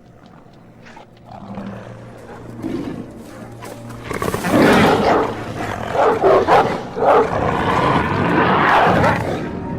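Loud, rough growling and roaring that begins about four seconds in, rising and falling in bursts, over a low steady music drone.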